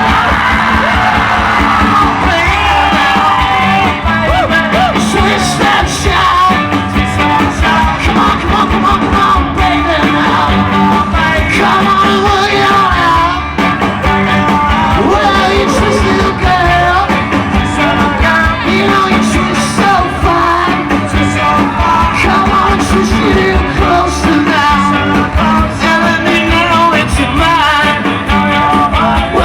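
A rock and roll band playing live with a lead singer, loud and dense, over a steady drum beat.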